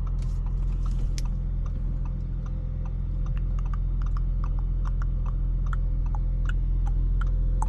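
Steady low drone inside the Audi S5's cabin, with many light, irregular ticks of raindrops hitting the car.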